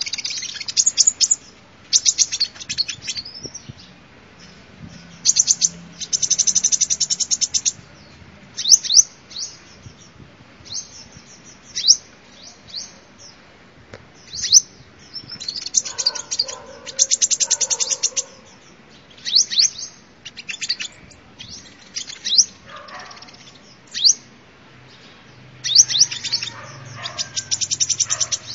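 Sunbird song: sharp high chirps and quick downward-sweeping notes, broken every few seconds by fast rattling trills.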